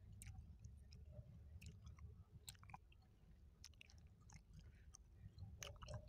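Faint close-miked chewing of food: irregular small mouth clicks, with a few stronger ones near the end, over a low steady hum.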